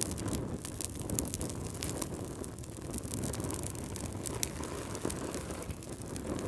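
Wood fire crackling: a steady low rush of burning with frequent irregular sharp pops and snaps.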